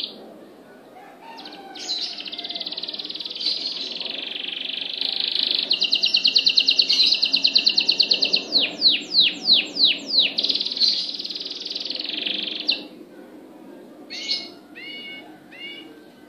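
A songbird singing one long, continuous song: a high warble that breaks into a rapid trill, then about six downward-sweeping notes, and back to warbling before stopping; a few short calls follow near the end.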